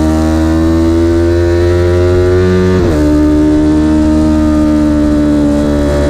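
Vehicle engine pulling hard, its pitch climbing steadily with a quick break and drop in revs about three seconds in, like a gear change, then climbing again.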